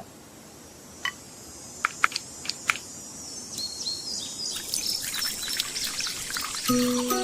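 Birds chirping: many short, quick chirps that grow denser over several seconds, after a few sharp clicks. Music with held notes comes in near the end.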